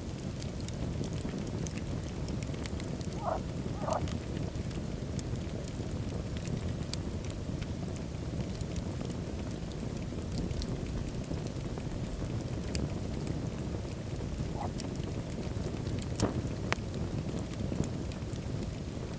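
Wood fire burning in a fireplace: a steady low rumble of flames with frequent small crackles and a few louder pops, the loudest about three seconds in, about four seconds in and near the end.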